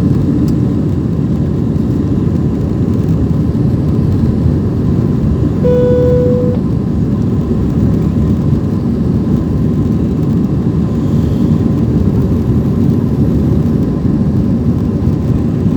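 Airbus A320 cabin noise during the climb: a steady, loud, low rush of engine and airflow. About six seconds in, a single cabin chime sounds briefly over it.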